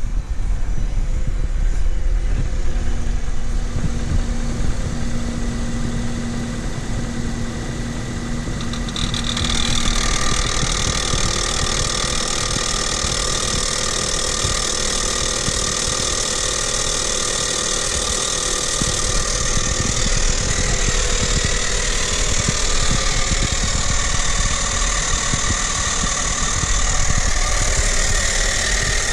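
Renault Kaptur 1.6 petrol engine idling cold after an overnight stand, with a loud, distinct grinding and whistling noise from the right side of the engine, the sign of a fault that goes away once the engine warms up. The owner can't tell whether an idler roller, the pump, the tensioner or the chain is the cause. About ten seconds in the sound gets louder and brighter in the treble.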